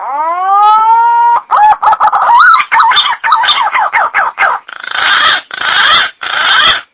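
Green pigeon (punai) calling: a whistled note that rises and levels off, then a quick warbling run of notes gliding up and down, ending in three hoarse, rasping bursts.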